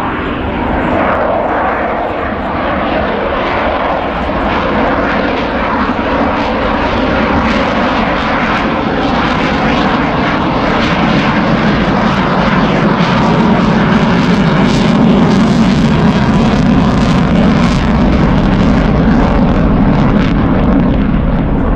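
Military jet aircraft in display flight, a continuous jet engine roar that grows louder in the second half as it comes closer.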